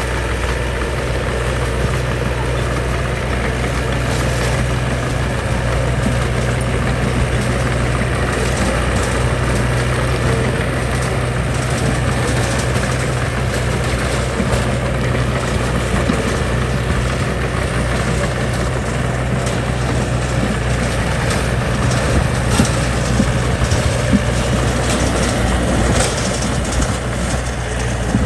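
Heavy diesel engine of construction machinery running steadily, with a few light knocks near the end.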